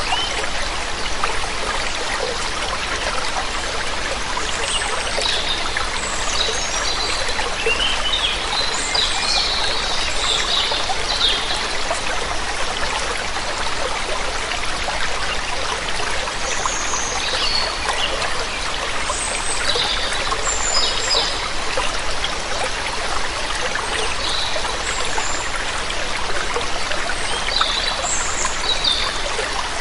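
A waterfall's falling water rushing steadily, with small birds chirping and calling over it in scattered bursts, busiest about a third of the way in.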